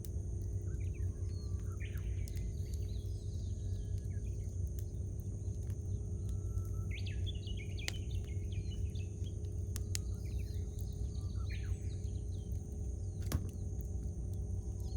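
Wood campfire crackling, with scattered sharp pops, the loudest near the end, over a steady low background noise. Birds call and sing in short chirping phrases several times.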